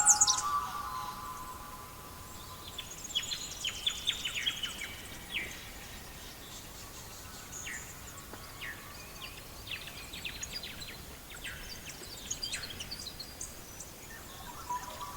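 Birds chirping: short scattered calls over a faint steady hiss. Louder bird song fades out about half a second in and starts up again near the end.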